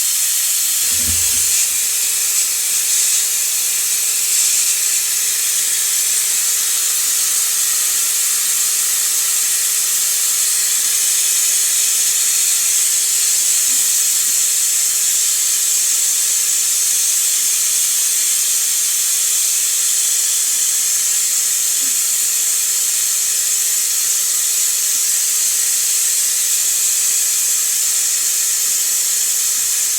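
Pneumatic brake bleeder running on compressed air, giving a loud, steady hiss as it vacuum-draws fluid and air out of the quad's front brake caliper. A low thump about a second in, then a steady tone joins the hiss and holds.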